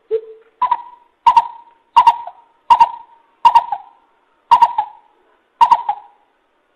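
Coucal (bubut) calling: two low hoots, then a run of about nine higher, sharper-onset hoots at an even pace of a little more than one a second, ending shortly before the end.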